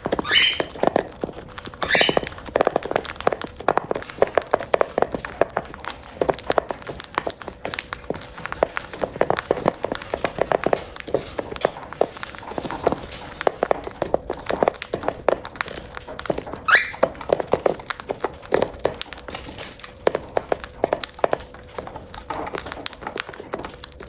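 Cockatiels eating: many quick irregular clicks and taps of beaks pecking at food. Short rising chirps come at the start, about two seconds in and again about two-thirds of the way through.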